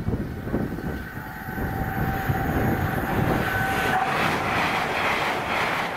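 Hitachi Azuma express passing at speed. A steady whine is heard as it approaches, then, about four seconds in, the loud rushing noise of its coaches going by.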